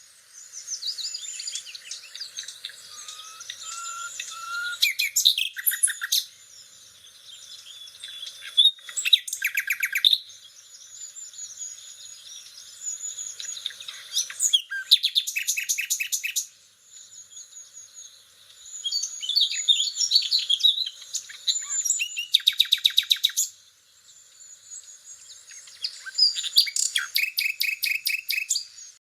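Nightingale song: a varied run of high whistles, chirps and warbles in phrases of a few seconds, several of them with fast rattling series of repeated notes, separated by brief pauses.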